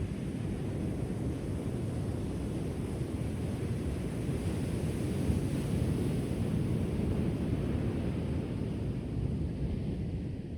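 Ocean waves washing onto a shore: a steady low rush that swells about halfway through and eases slightly near the end.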